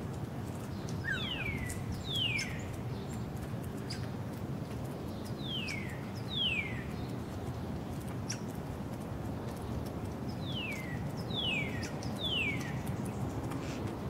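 A bird whistling clear notes that fall in pitch, seven in all, in groups of two, two and three, over a steady low background rumble.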